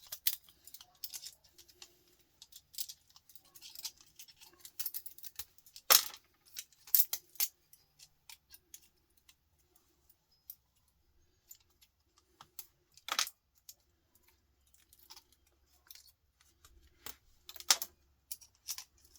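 Scattered clicks, snaps and knocks of hand tools and small parts as components are worked off a desktop power supply's circuit board. The loudest knocks come about six, thirteen and eighteen seconds in.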